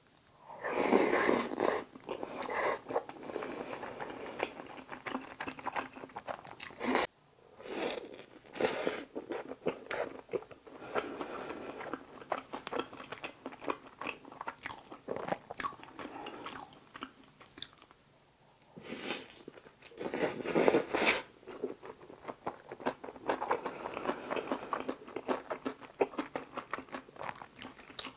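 Close-miked eating sounds: biting and chewing tteokbokki rice cakes and cheese-topped pizza in spicy sauce, a dense run of crunching and mouth clicks with louder stretches about a second in and around twenty seconds in, and one sharp click about seven seconds in.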